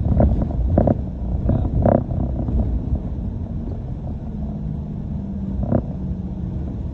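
London bus engine and road rumble heard from inside the bus, low and steady, with a faint steady engine tone. A few short knocks or rattles come in the first two seconds, and another about three-quarters of the way through.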